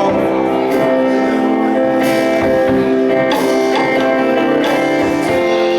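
Live band playing an instrumental passage with no singing: guitar strummed over held chords.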